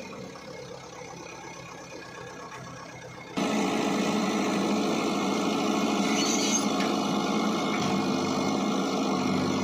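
Diesel engine of heavy farm or earth-moving machinery running, suddenly much louder about three seconds in and staying loud.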